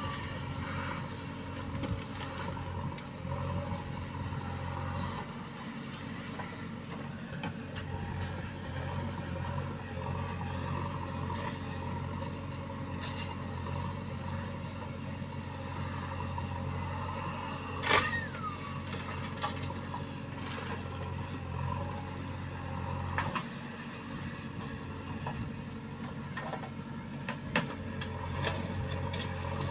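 Diesel engine of a JCB or tractor running steadily, with a sharp metallic clank about 18 seconds in followed by a short falling squeal, and a few lighter knocks.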